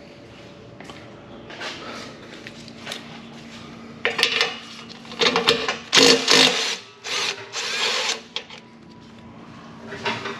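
A power tool runs in several short bursts, the loudest from about four to eight seconds in, as it spins the 14 mm bolts off a Subaru WRX's Remark axle-back exhaust.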